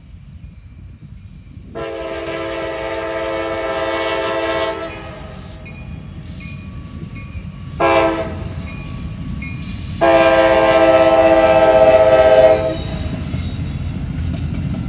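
Freight locomotive air horn sounding a long blast, a short blast and another long blast, over the steady low rumble of the approaching train.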